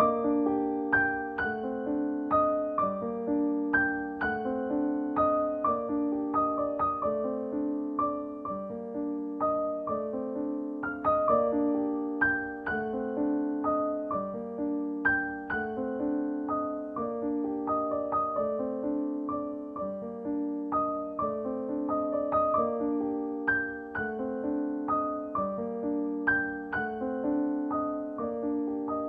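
Background music: a gentle piano or electric piano playing a steady, repeating pattern of struck notes.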